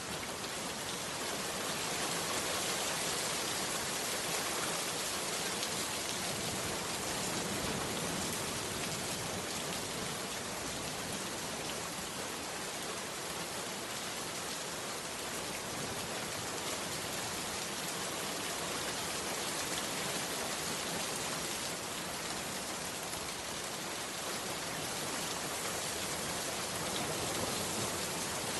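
Heavy rain falling steadily, a dense, even hiss with no pauses.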